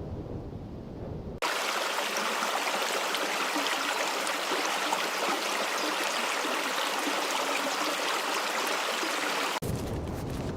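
Steady rushing of running water, an even hiss that starts abruptly about a second and a half in and cuts off just before the end. It is framed by a low rumble at the start and again at the end.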